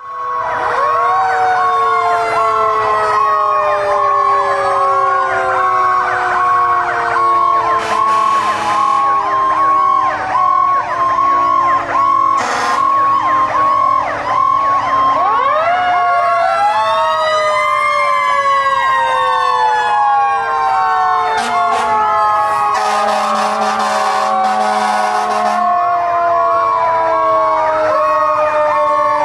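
Several fire apparatus sirens sounding at once: mechanical Federal Q sirens winding up and coasting down in long falling wails, over a steady pulsing electronic siren tone. Air horn blasts cut in a few times in the second half.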